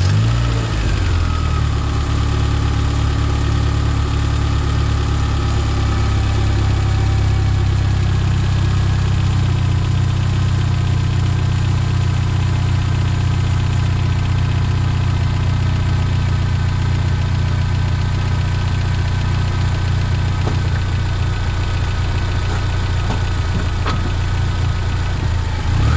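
Turbocharged car engine catching right at the start and settling over the first couple of seconds into a steady idle.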